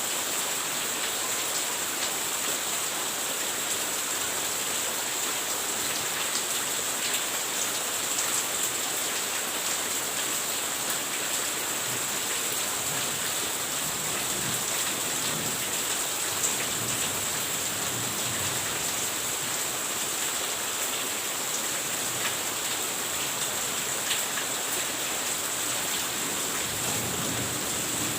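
Steady rain falling, an even hiss with fine patter of drops, with faint low rumbles in the middle and near the end.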